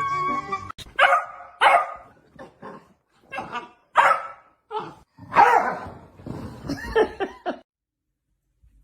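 A dog barking and yipping, about a dozen irregular barks, some drawn out, that stop near the end.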